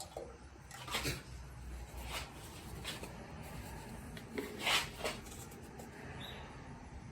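Several light knocks and clatters of objects being handled, spaced irregularly, the loudest a little before five seconds in, with a faint bird chirp about six seconds in.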